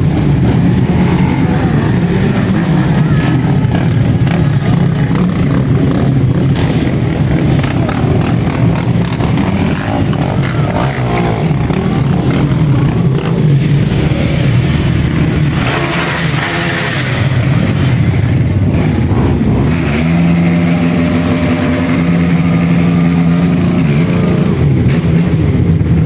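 Quad bike engines revving and running loudly during burnouts, with a harsher, noisier burst about two-thirds of the way through and a steadier held engine note near the end.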